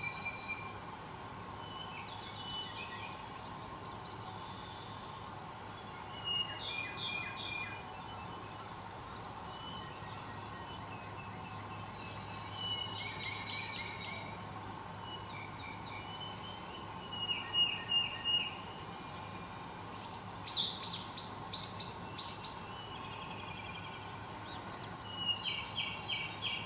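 Wild songbirds singing in short repeated phrases, with several different song types overlapping and a thin high call recurring every few seconds. The loudest is a quick run of about eight sharp notes near the two-thirds point. Beneath the birds there is a steady background hum.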